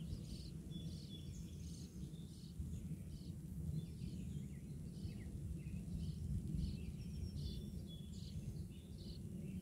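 Birds chirping in short, repeated calls, some sliding down in pitch, over a steady low rumble.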